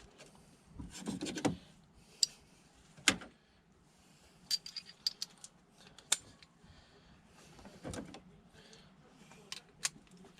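Ignition coils being fitted into a Volvo 2.4 five-cylinder engine and their connectors pushed on: irregular light clicks, knocks and metallic clatter of plastic and metal parts being handled, with one sharper knock about three seconds in and a quick run of small clicks around five seconds.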